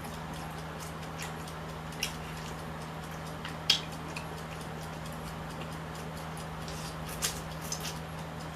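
Eating sounds: scattered short clicks and smacks, the loudest about three and a half seconds in, over a steady low hum.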